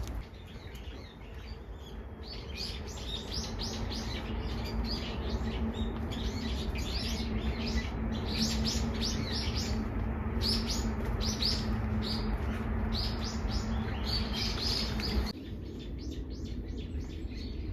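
Small birds chirping in quick, high-pitched calls, many overlapping, over a steady low hum. About fifteen seconds in the sound drops off abruptly, leaving a few scattered chirps.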